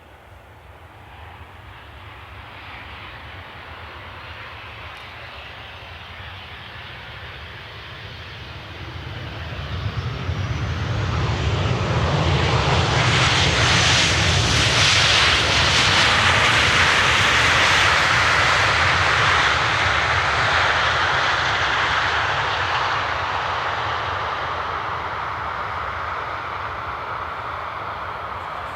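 Jet airliner passing close by: its engine noise grows from faint over about ten seconds, stays loud for several seconds, then slowly fades away.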